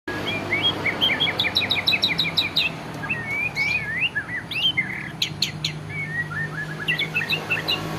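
White-rumped shama (murai batu) singing a varied song: a quick run of about a dozen repeated chirps, then looping whistles, sweeps and sharp rising notes. A faint low steady hum lies underneath.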